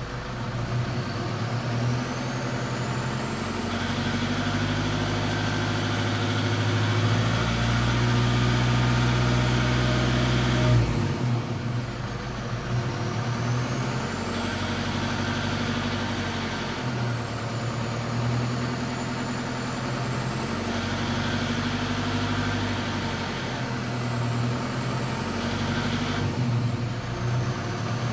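Toyota 1KD-FTV 3.0 D-4D four-cylinder turbodiesel pulling in repeated surges of acceleration, with a faint high whine that climbs and then drops sharply about a third of the way through. The hard, fast rattle the owner hears around 1400 rpm under load sounds here; he rules out the injectors, which are brand new.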